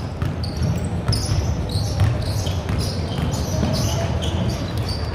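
Basketball game play: a ball bouncing on the court amid sneakers squeaking in short, high chirps.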